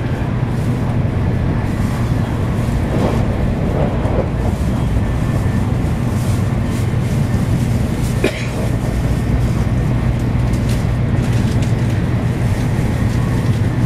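Shinkansen running noise heard inside the passenger cabin: a steady low rumble and hum with rushing air, and one brief click just past the middle.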